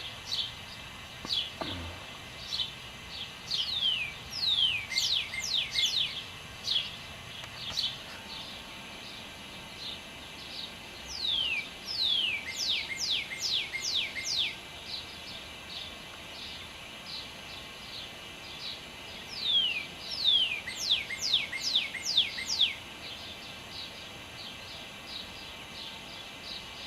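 Dawn bird song: phrases of quick, falling whistled notes, repeated about every eight seconds, the last phrase the loudest.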